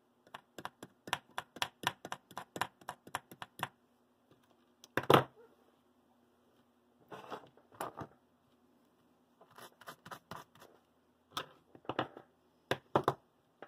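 Solder being cleaned off a small metal part of a model locomotive with a hand tool: a quick run of small clicks and scrapes for the first few seconds, one louder knock about five seconds in, then scattered clicks and scrapes.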